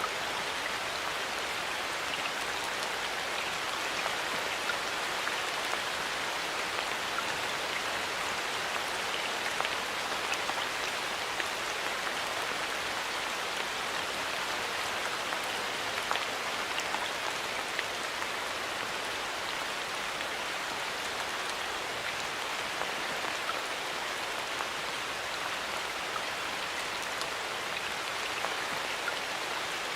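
Steady light rain falling in a forest: an even hiss of rain with many small drops pattering on leaves and other surfaces.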